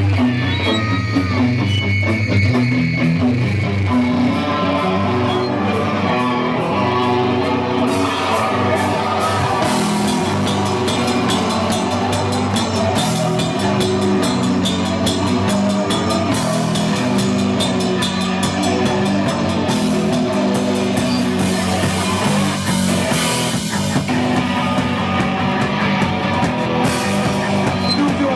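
Live rock band playing loudly: guitar and bass notes at first, with the drum kit and cymbals coming in about eight seconds in and the full band carrying on.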